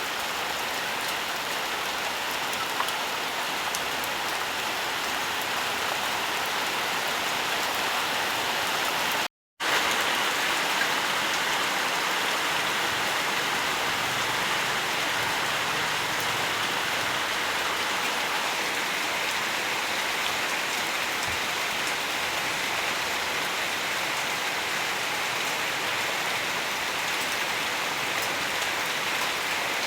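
Steady, dense rainfall hissing evenly. It cuts out completely for a split second about nine seconds in, then carries on.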